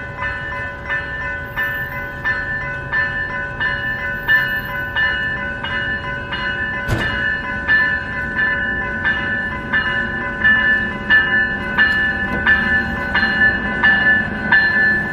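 Railroad grade-crossing bell ringing steadily, a little under two strokes a second. A low train rumble builds underneath in the second half, and there is a single sharp click about halfway through.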